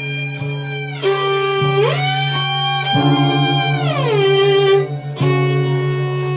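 Acoustic guitar and violin improvising together. A low note is held underneath and is briefly pulsed in a fast tremolo in the middle. Above it a line slides up in a long glissando, holds, slides back down, and climbs again near the end.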